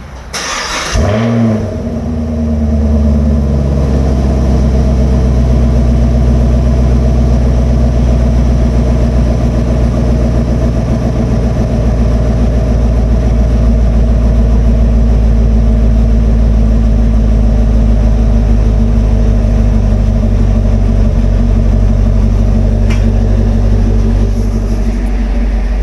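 2020 Chevy Camaro SS's 6.2-litre LT1 V8 on a cold start: it fires with a brief rev flare about a second in, then settles into a steady, loud idle.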